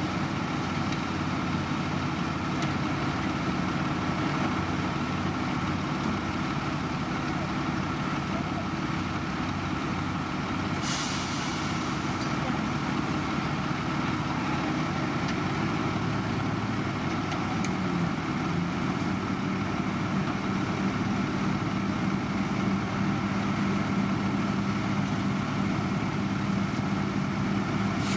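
Heavy diesel engine of road-construction machinery running steadily, with a short hiss of released air about eleven seconds in.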